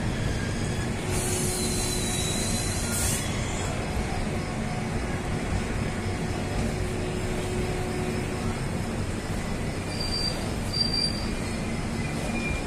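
Passenger train coaches rolling slowly into a platform as the train comes in to stop, wheels rumbling on the rails with thin intermittent brake and wheel squeals. A high hiss sounds for about two seconds a second in.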